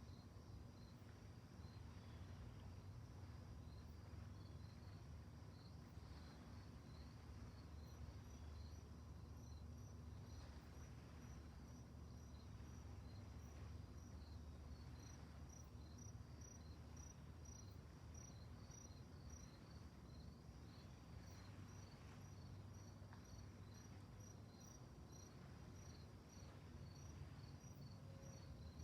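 Crickets chirping faintly at night, several overlapping trains of high, evenly repeated chirps.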